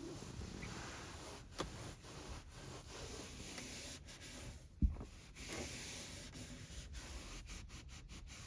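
Microfiber cloth rubbing and wiping over car interior surfaces, with a soft click early and a louder knock about halfway through.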